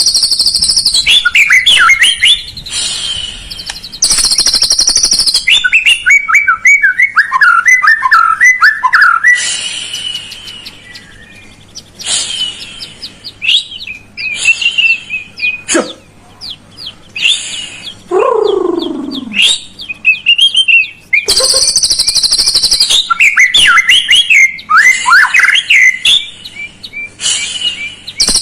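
White-rumped shama (murai batu) song played as a lure to set a quiet bird singing: loud, varied phrases of warbling whistles and chirps. Between phrases come stretches of a steady high-pitched buzz, and about two-thirds of the way through there is one long whistle falling steeply in pitch.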